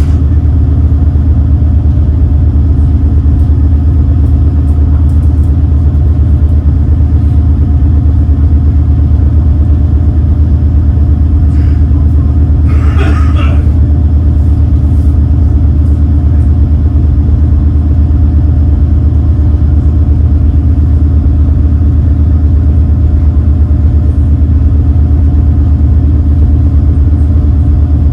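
Engines of the Super Jet Miyajima high-speed passenger boat running steadily, a loud, unbroken low drone with a deep hum. A brief voice is heard about halfway through.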